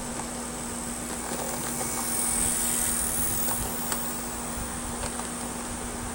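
HO scale model locomotive (a Norfolk Southern SD50) running on its track: a quiet hiss that swells briefly about two seconds in, with scattered light clicks, over the steady hum of a room air conditioner.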